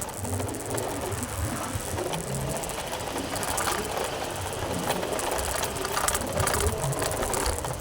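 Motorcycle being ridden along a road: engine and road noise with a steady rattling clatter running through it.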